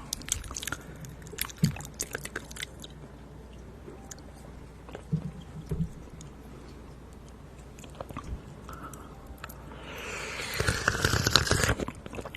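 Close-miked ASMR mouth sounds of mock eating: a run of small wet clicks and smacks, sparser through the middle, then a louder rustling stretch near the end.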